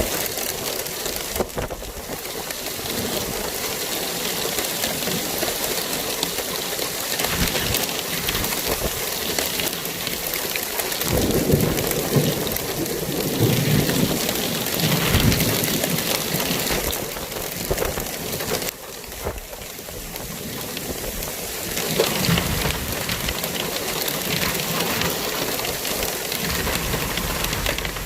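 Rain falling steadily, an even hiss, with deep rumbles swelling now and then.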